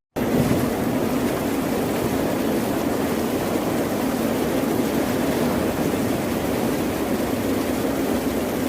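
Steady rushing wash of ocean waves, an even noise with no distinct breakers, cut out for a split second right at the start.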